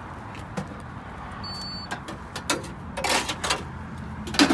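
A card payment terminal gives one short high beep about a second and a half in, the sign that a contactless payment has gone through. Handling clicks and clatter follow, with brief louder bursts of noise, the loudest near the end.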